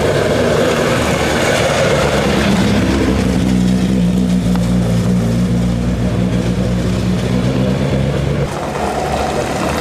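Ford Escort Mk2 rally car's engine running at low, steady revs as the car rolls slowly past and away, easing off slightly near the end.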